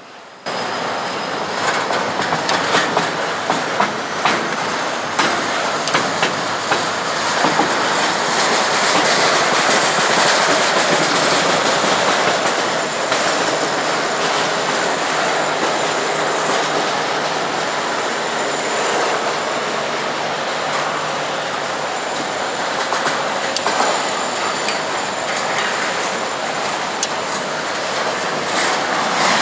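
Intermodal freight train cars rolling slowly past at about 15 mph: a steady rumble of steel wheels on rail, with sharp clacks as the wheels cross rail joints, most marked in the first several seconds. The sound cuts in suddenly about half a second in.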